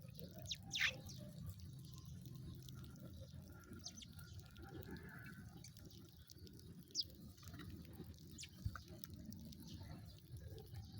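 Sparrows chirping sparsely: a few short, sharp, high chirps that sweep downward, the loudest about a second in, over a steady low rumble.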